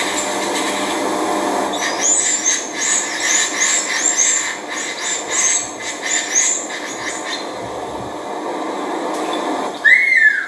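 A bird singing: a run of high, down-slurred notes, two or three a second, over a steady rushing background, then one louder, lower arched note near the end.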